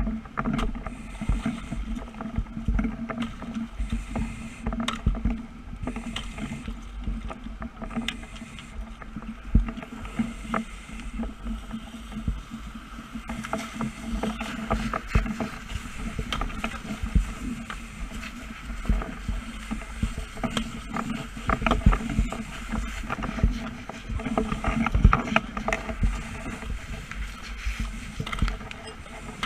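A steady engine drone with irregular crackles and knocks over it.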